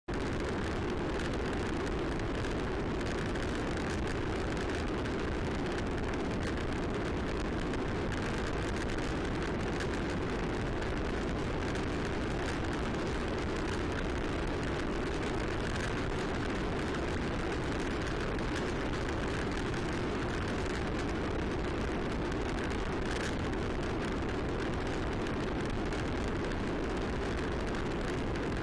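Steady wind rush on the microphone of a camera carried by a bicycle being ridden, an even noise with no breaks.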